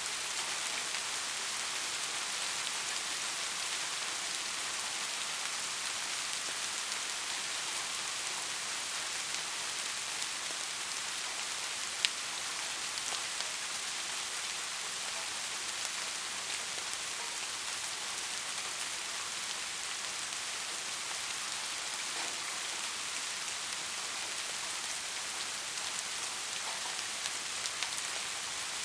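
Steady rain falling, an even hiss with scattered drop ticks and one sharper, louder drop about twelve seconds in.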